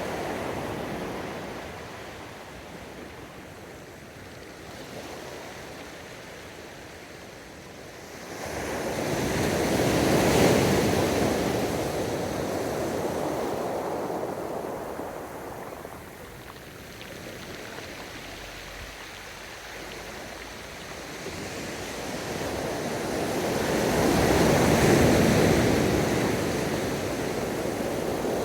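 Ocean waves breaking and washing up the beach: the surf swells twice, about fifteen seconds apart, building sharply about eight seconds in and again near the end, with quieter wash in between.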